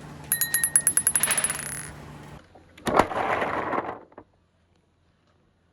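Glass marbles clattering down a marble run track: a quick series of bright, ringing clicks for about a second and a half, then a sharp knock about three seconds in, followed by about a second of rolling noise. The sound then cuts off suddenly.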